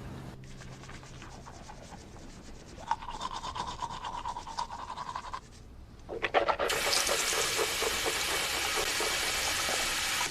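Running water with a fast rhythmic rubbing in the first half. The water grows loud about six seconds in and stops abruptly at the end.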